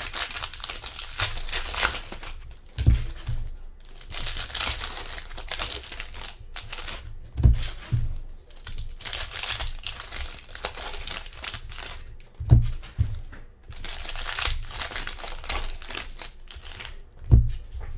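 Foil packs of 2020 Select NFL trading cards being torn open and their wrappers crinkled, in stretches of a few seconds, with a dull low thump about every five seconds.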